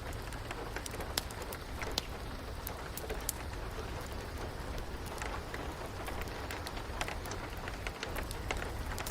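Steady rain with a wood fire crackling: a constant hiss with sharp pops at irregular intervals.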